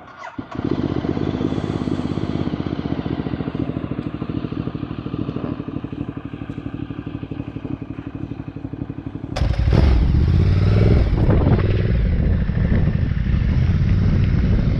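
Motorcycle engine starting and idling with an even pulsing beat. About nine seconds in, it changes abruptly to louder, deeper engine running with wind noise as the bike rides along.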